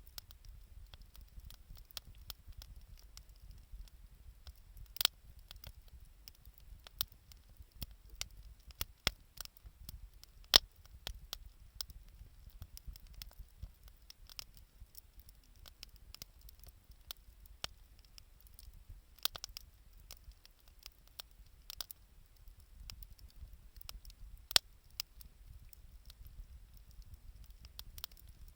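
Wood bonfire crackling: irregular sharp snaps and pops, a few much louder than the rest, over a low steady rumble.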